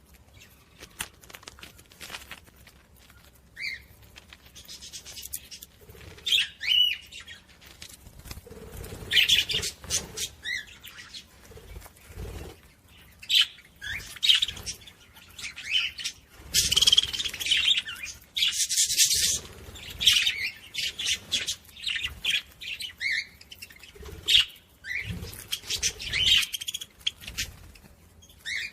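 Pet budgerigars chirping in short calls, with several bursts of wing flapping.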